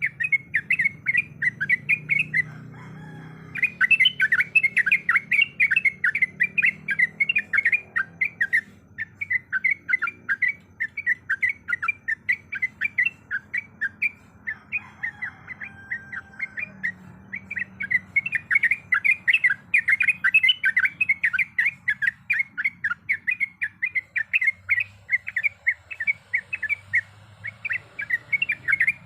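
Yellow-vented bulbul singing a long, rapid song, a fast run of short chirping notes that breaks off briefly twice and then carries on.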